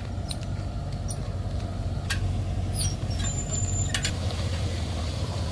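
A boat's motor running steadily as a low rumble. A few sharp clicks and a brief high squeak sound over it around the middle.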